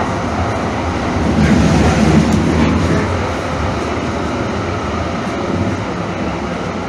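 A Calgary CTrain light-rail car in motion: a steady rumble of wheels on the track, which swells for a second or two near the start and then eases off.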